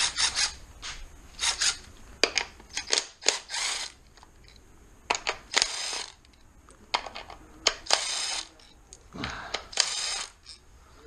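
Metal hand tools and parts clinking as engine-bay components are worked loose: a run of sharp clicks and several short ringing metallic clinks.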